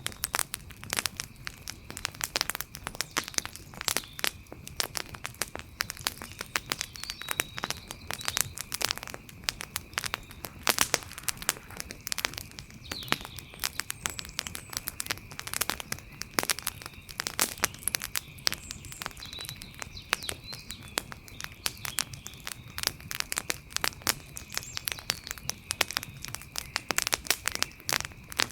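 Wood fire crackling: dense, irregular pops and snaps. A faint steady high-pitched tone runs beneath.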